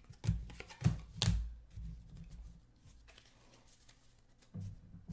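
Trading cards and packs being handled on a table: three sharp taps and rustles in the first second and a half, then softer sliding and bumps.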